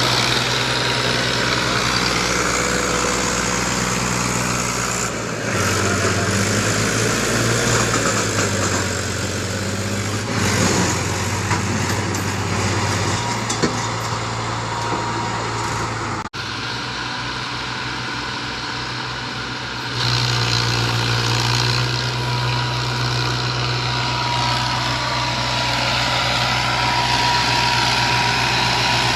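Diesel tractor engine running hard under load while pulling a fully loaded trolley. The engine note shifts a few times and drops out briefly about halfway through.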